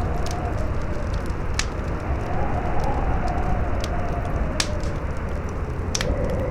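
Campfire burning with scattered sharp crackles and pops, a few louder ones about a second and a half, four and a half and six seconds in, under a strong howling wind whose whistle wavers up and down in pitch over a steady rushing noise.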